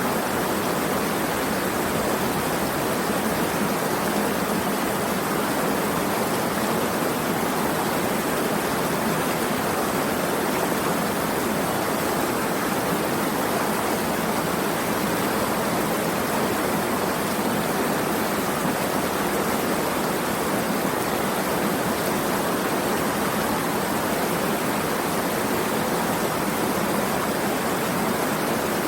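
Steady rushing of flowing water, an even hiss with no breaks or changes in level.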